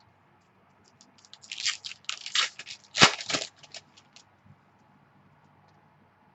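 Crinkling and tearing of a trading-card pack's wrapper as it is ripped open, a run of crackles lasting about three seconds and loudest near the middle.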